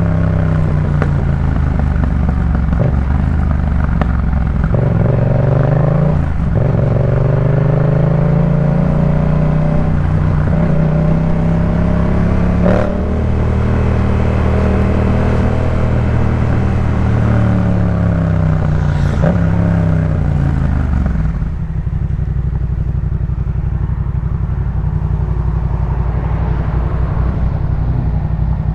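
Yamaha MT-07 parallel-twin engine through a Jeskap K4 full exhaust system, under way: the revs rise and fall through several gear changes. Then they drop about three quarters of the way through and the engine settles into a steady idle.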